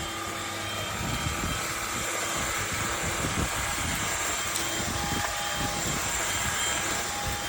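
Cordless stick vacuum cleaner with a brushless motor running steadily: an even rush of air with a constant high whine.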